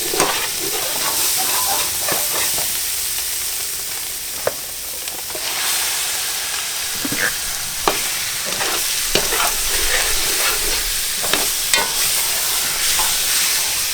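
Chicken karahi frying on a high heat in a wok-like karahi pan: a steady sizzle, with scattered clicks and scrapes of a spoon stirring the pan.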